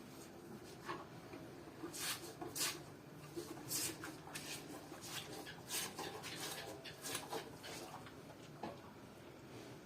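A herd of cattle walking, with irregular hoof knocks and clatters, several a second, over a low steady background.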